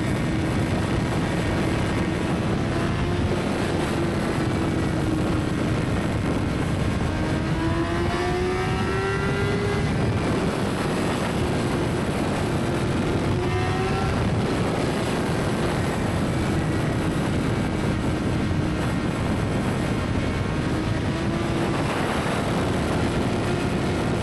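Motorcycle riding at highway speed, with steady wind and road rush over the engine. The engine note climbs in pitch several times as the bike accelerates.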